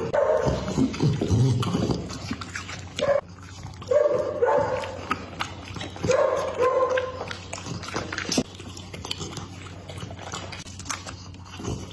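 Pitbull whining in a few short calls during the first seven seconds, among the clicks and smacks of its chewing on meat.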